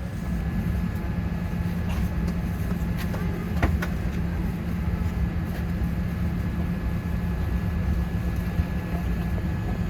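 Steady low hum of a Boeing 787-8's passenger cabin with its air system running, a faint steady whine above it. Two light clicks about three and four seconds in.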